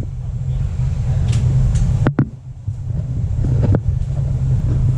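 Honda VT750DC's V-twin engine and exhaust running steadily with a low rumble. The sound drops off briefly about two seconds in, and a few sharp clicks come around then and again later.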